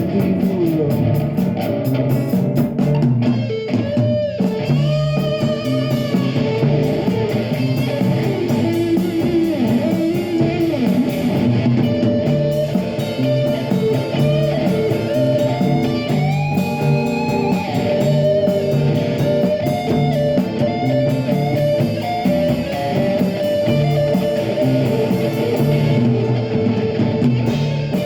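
Live rock band playing, with electric guitar to the fore over bass and drums; the guitar lines bend in pitch.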